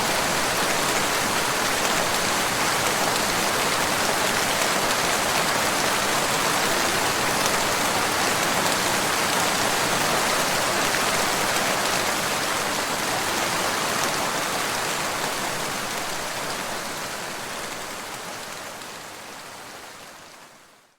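Steady rain falling, an even hiss of countless drops, fading out over the last few seconds.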